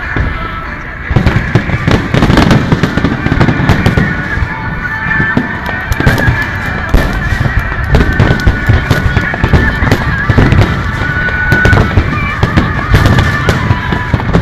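Dense fireworks finale barrage: many sharp bangs and crackles coming in rapid, overlapping succession, with music playing underneath.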